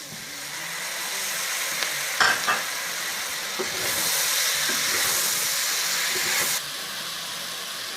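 Diced tomatoes sizzling in a pot of meat, onion and garlic frying in ghee, being stirred, with a knock about two seconds in. The sizzle grows louder, then drops off sharply near the end.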